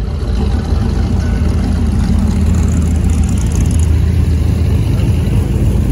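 Classic car engine running with a steady, deep exhaust rumble.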